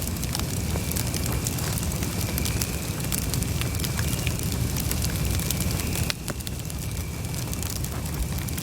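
Wood campfire burning: a steady low rumble of flames with frequent sharp crackles and pops. A faint steady high tone runs underneath, and the sound drops slightly about six seconds in.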